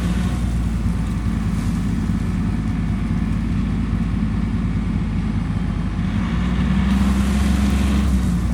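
Tractor engine running steadily, then working harder from about six seconds in, its low note growing louder as it takes the strain of pulling a chained tree limb.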